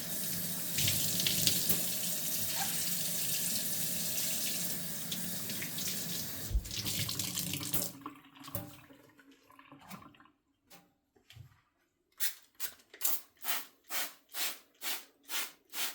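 Kitchen faucet running into a sink, turned off about halfway through, leaving a few faint drips and taps. Near the end, a quick regular series of short swishing strokes, a little over two a second.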